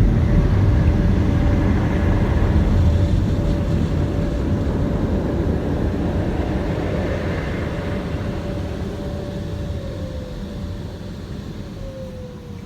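Tunnel car wash machinery heard from inside the car: a loud, steady rushing rumble with a steady hum. It fades gradually, and the hum drops in pitch near the end.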